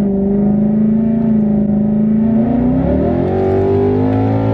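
ESS-supercharged Mustang GT's 5.0 Coyote V8 heard from inside the cabin, running steadily at first, then rising in pitch from about three seconds in as the car accelerates.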